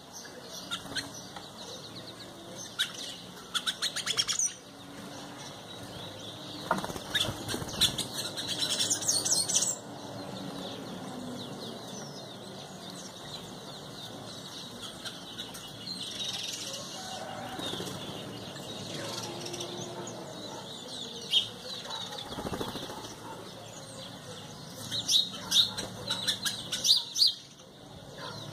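Birds flapping their wings in several short bouts of rapid fluttering, with chirps in between.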